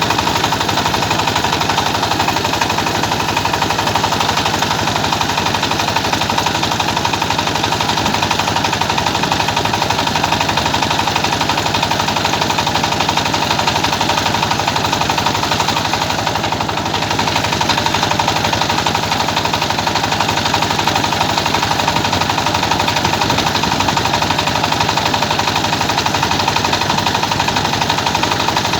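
Old rice milling machine running steadily, a loud continuous mechanical clatter with a fast, even pulse.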